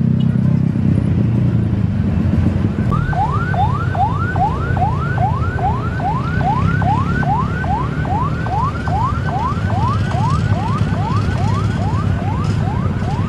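An electronic siren starts about three seconds in, sounding a fast yelp of rising sweeps, about two and a half a second, over a steady low engine rumble.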